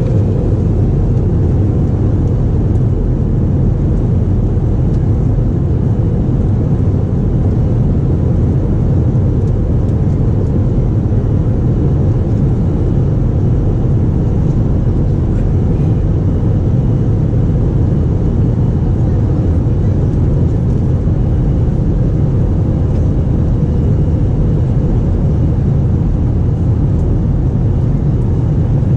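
Passenger airliner cabin noise: the steady, deep, unbroken sound of the jet engines and airflow heard from inside the cabin.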